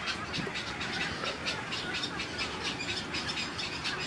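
Dense, rapid chattering of short, high bird chirps, many calls overlapping without a break.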